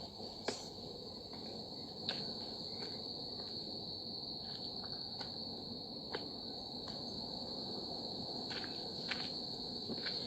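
Insects droning in one steady high-pitched note, with a few sharp clicks scattered through it.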